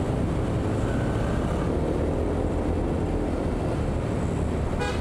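Motorbike engine running steadily with road and wind noise while riding.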